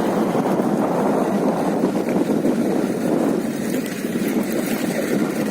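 Steady rushing wind noise on the microphone of a moving motorcycle, with road and engine rumble blended underneath.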